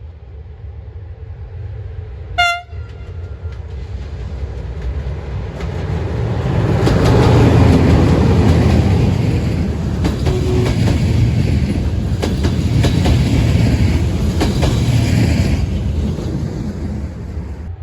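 A train horn gives one short blast, then a train passes: a rumble that builds to a peak and holds, with wheels clicking over the rail joints, easing off near the end.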